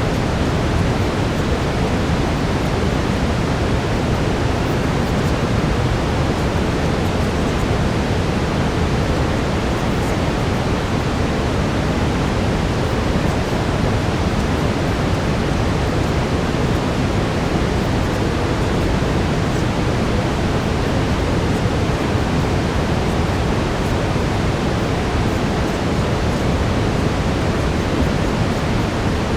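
Steady synthetic brown noise: an even, unchanging rush weighted toward the low end, with no breaks or events.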